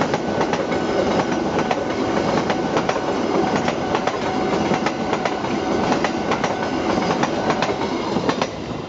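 Passenger train coaches running past close by, steel wheels rumbling and clattering over the rail joints in a dense run of clicks. The sound drops away just before the end.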